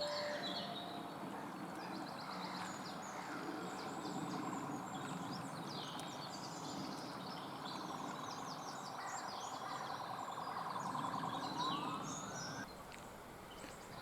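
Small birds chirping and twittering repeatedly over a steady background hum of outdoor noise, with a short rising call near the end.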